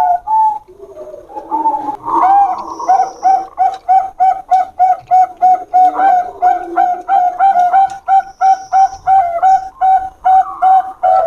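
Bangkok-type zebra doves (perkutut) cooing. After a short pause about a second in, they sing a fast, even run of short coos, about three a second.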